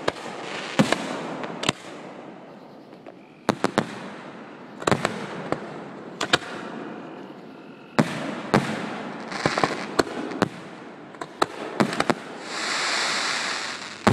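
Aerial fireworks shells bursting overhead, a rapid run of sharp bangs at uneven intervals, each trailing off in an echo. A hiss lasting about a second comes near the end.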